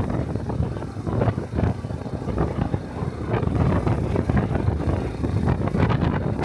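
Small motorcycle engine running under way, with wind buffeting the microphone in uneven gusts.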